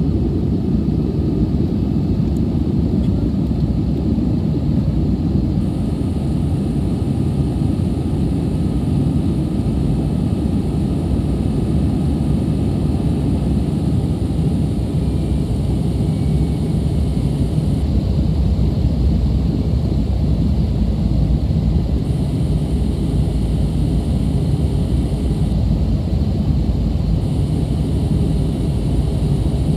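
Airbus A320 cabin noise in flight: a steady, loud roar of the jet engines and airflow heard from inside the passenger cabin, deep and unchanging.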